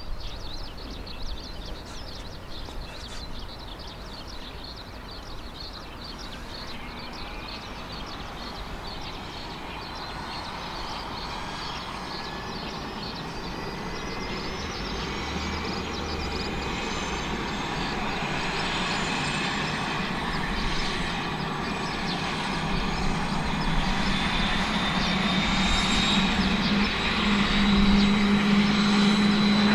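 Twin Turbomeca Arriel 1E2 turboshaft engines of a Kawasaki BK117 C-2 helicopter starting up. A turbine whine comes in several seconds in and climbs in pitch, growing steadily louder as the engines spool up, and a strong low hum joins near the end.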